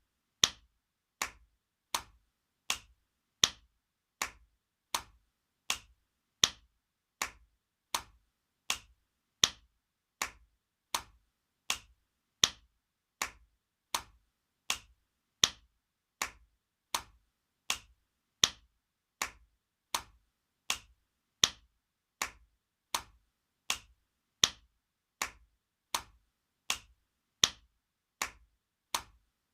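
Spanking sound effect: sharp open-hand slaps on skin, repeating evenly about every three-quarters of a second, every fourth slap louder, in a looped rhythm.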